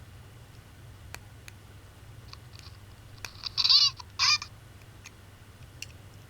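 Tinny playback from a small button-pressed sound keychain toy: a few faint clicks, then two short high-pitched sounds a little over three seconds in, one right after the other.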